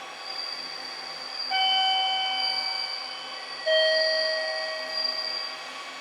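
Two-note descending station announcement chime, a high 'ding' then a lower 'dong' about two seconds apart, each ringing on and fading slowly.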